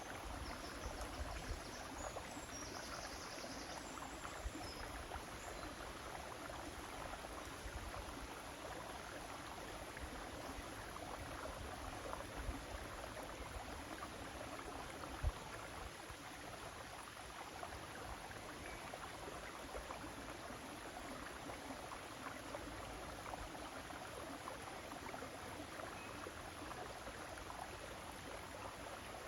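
River water flowing with a steady rushing sound, with low rumbles that come and go, a few faint high chirps in the first few seconds, and a single short knock about halfway through.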